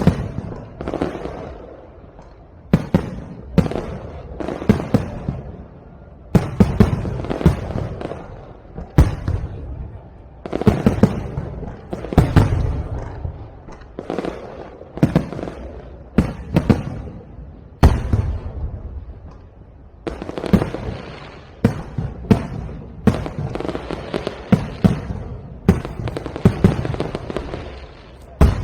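Aerial fireworks shells bursting in quick succession, a sharp bang every second or two, each followed by a rumbling, crackling tail.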